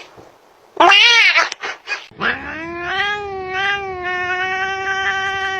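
Domestic cat yowling: a short, loud call with a bending pitch about a second in, then from about two seconds in a long, drawn-out yowl held at a steady pitch.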